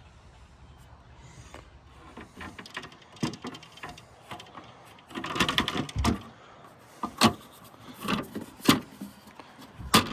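A series of clicks and knocks from latches and doors being handled in a camper. There is a short clatter about five seconds in, then single sharp knocks.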